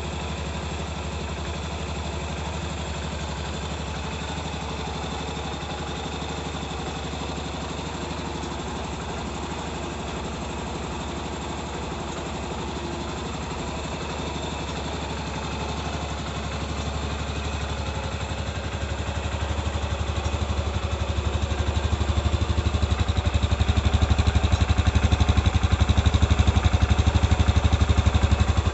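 Yamaha SR400's air-cooled single-cylinder engine idling with a steady, even beat. It grows louder over the second half without any change in pitch.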